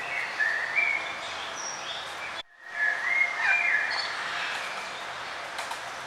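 Birds chirping and singing in short gliding phrases over a steady outdoor hiss, with a brief cut to silence about two and a half seconds in.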